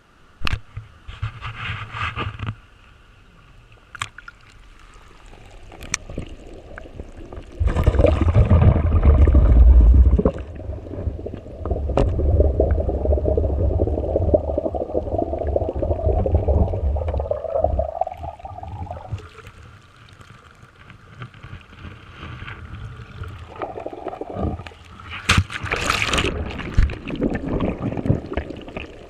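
Water gurgling and sloshing close to the microphone in uneven surges, with a heavy low rumble through the middle and scattered sharp clicks.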